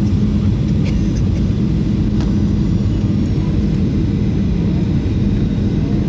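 Steady cabin noise of a Boeing 737-800 in flight or on the runway: a low drone from the CFM56 engines and airflow, with a steady hum and a few faint clicks about one and two seconds in.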